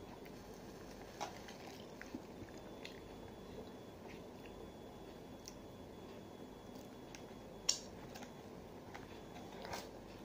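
Children chewing and biting fried chicken and potato wedges, with scattered soft mouth clicks and one sharper click about three-quarters of the way in.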